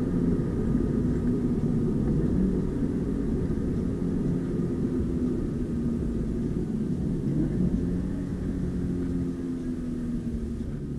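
Subaru BRZ's flat-four engine running at a steady cruise over tyre and road rumble, heard from inside the cabin. It grows a little quieter over the last few seconds.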